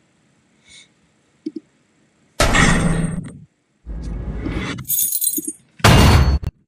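Three short added sound effects, one after another with brief gaps, after a near-silent start.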